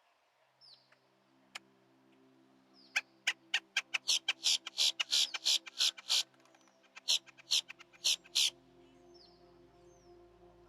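A bird calling a fast series of loud, harsh notes, about five a second, for several seconds in the middle, with a few short falling chip calls before and after, over soft background music.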